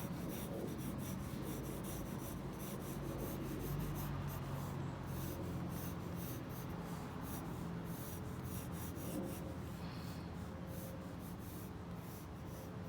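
Drawing strokes on paper in a sketchbook: a run of short, scratchy marks that continues throughout. A faint steady low hum lies underneath.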